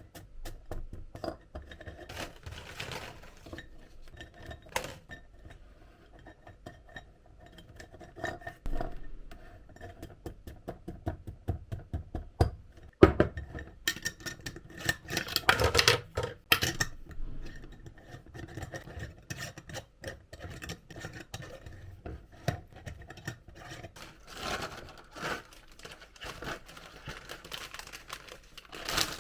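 Dishes, glassware and cutlery being handled: scattered clinks, scrapes and knocks, with one sharp knock about 13 seconds in and a busier stretch of clattering from about 14 to 17 seconds.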